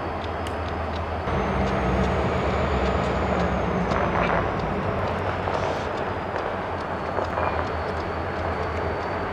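Locomotive engine running steadily, growing louder about a second in, with a thin high whine above it.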